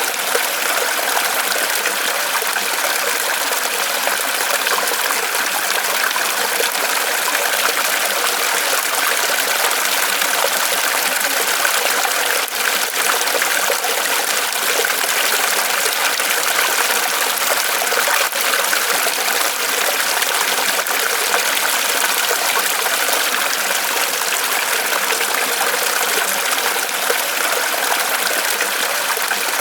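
Small waterfall of water trickling and splashing steadily from a tree trunk.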